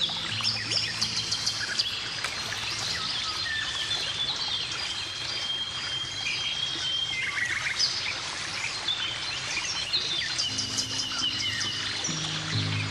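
Several songbirds chirping and trilling throughout. Soft background music drops out about a second in and comes back near the end.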